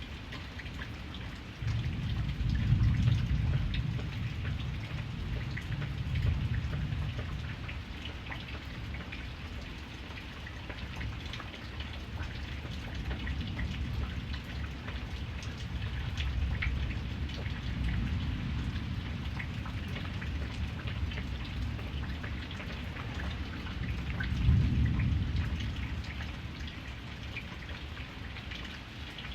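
Steady rain pattering on a surface, with thunder rumbling low under it: a loud rolling rumble begins about two seconds in, a softer one comes around the middle, and another loud one near the end.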